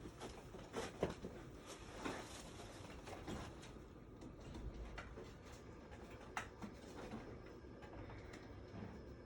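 Scattered light clicks and knocks of tools and parts being handled, a few sharper ones about a second in, over a low steady background hum.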